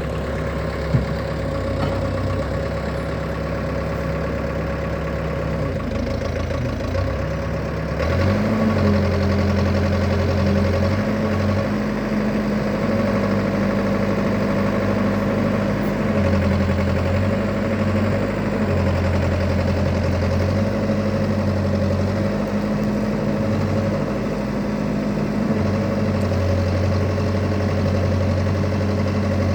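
Komatsu WB93-2A backhoe loader's diesel engine running, idling at first, then stepping up to a higher, louder speed about eight seconds in. After that a deeper note comes and goes in stretches of a few seconds over the steady engine sound.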